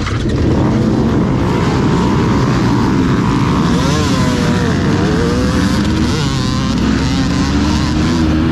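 Dirt bike engines running loudly and revving, their pitch rising and falling.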